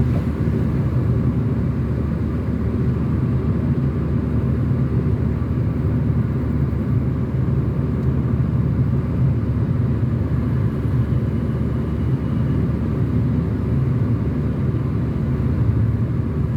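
Car driving along a mountain highway: a steady low rumble of engine and tyre road noise, unchanging throughout.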